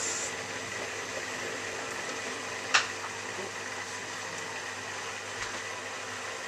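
Miele W3744 washing machine spinning at a reduced 500 rpm, a steady motor hum and drum whir, its speed held down by the suds lock because the wash has oversudsed. A single sharp click nearly three seconds in.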